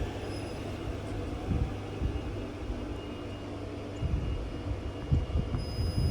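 Electric multiple-unit train running through the station: a steady rumble with a faint high whine, and heavier low thumps from about four seconds in.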